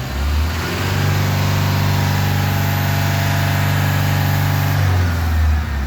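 Hyundai Mighty truck's diesel engine revved up from idle about a second in, held steady at the higher speed for about four seconds, then let back down toward idle near the end.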